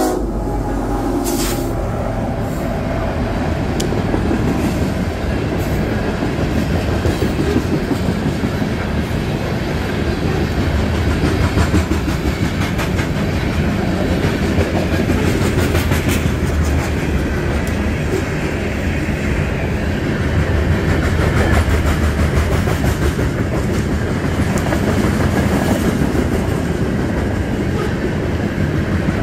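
Loaded coal hopper cars of a freight train rolling past close by: a steady, heavy rumble with the clatter of wheels over the rails.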